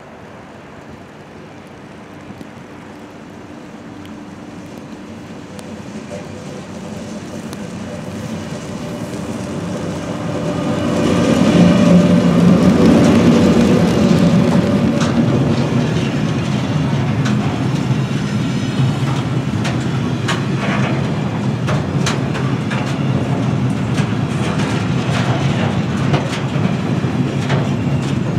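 A train approaching and passing close by. A rising rumble peaks about eleven seconds in as the locomotive goes past, then the wagons keep rolling by with wheels clicking over the rail joints.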